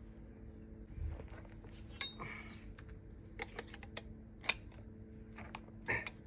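Metal hand tools clinking and tapping against steel car parts: a dull knock about a second in, then several sharp separate clinks about a second apart, over a faint steady hum.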